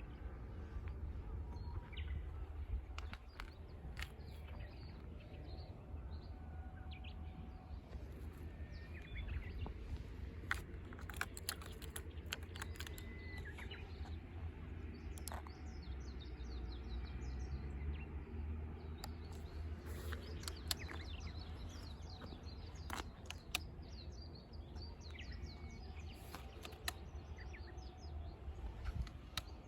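Outdoor background: small birds chirping now and then over a steady low rumble like wind on the microphone, with scattered sharp clicks. No engine is running yet.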